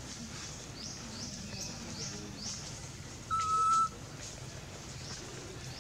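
Birds chirping: a quick run of short, falling high notes. Just past halfway comes the loudest sound, a single level, high-pitched call lasting about half a second.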